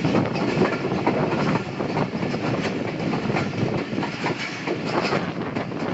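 Train running on the track, its wheels clattering over the rails in a steady stream of rumble and quick irregular clicks.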